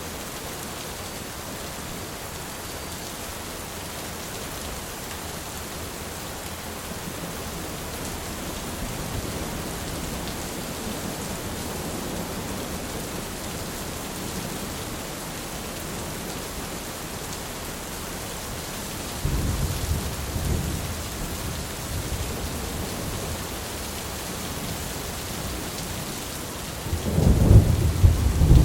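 Steady heavy rain falling, with rolling thunder: a low rumble builds about two-thirds of the way through, and a louder, deeper peal of thunder breaks near the end.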